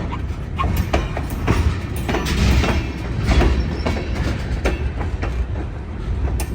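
A train passing close by at a crossing: a steady low rumble of the cars, with irregular clanks and clicks from the wheels on the rails.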